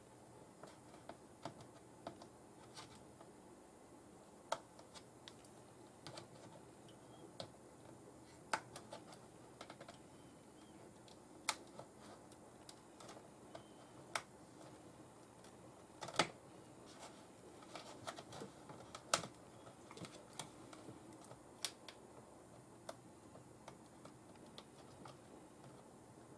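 Irregular light clicks and taps, scattered a few per second, the sharpest around the middle, over a faint steady hum.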